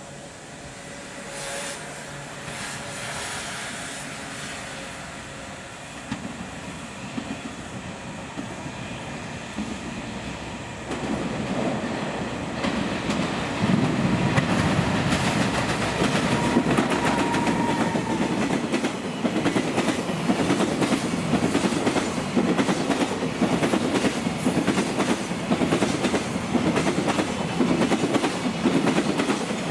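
JR Freight EF210 electric locomotive hauling a container freight train, approaching and growing much louder about halfway through. It then passes close by with a steady, rhythmic clickety-clack of wagon wheels over the rail joints.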